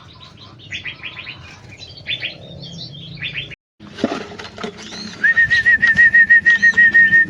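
Small aviary birds chirping in short, quick calls. A little past halfway the sound cuts out for a moment, then a loud rapid clatter starts, joined by a steady, slightly warbling high whistle that holds to the end.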